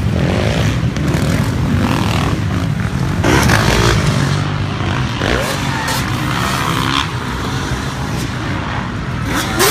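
Motocross dirt bike engines running, with revs rising and falling.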